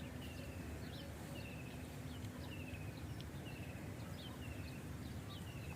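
A bird calling a short, quick trill about once a second, each trill falling slightly in pitch, with brief higher chirps between, over a steady low rumble.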